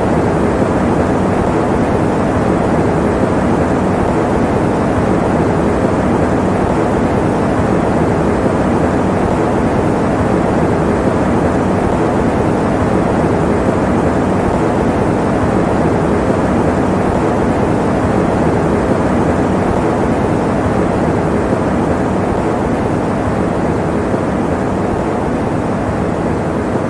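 Electric fan running steadily: an even, unchanging whoosh of air, heaviest in the low and middle range with little hiss on top.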